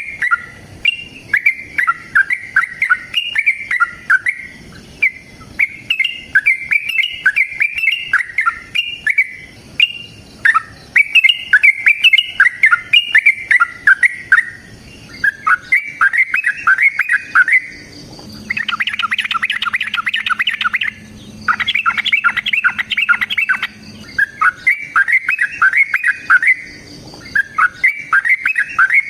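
Yellow-vented bulbul (trucukan) singing loud, bubbly chattering phrases one after another. In the second half the song turns into faster, denser rapid runs.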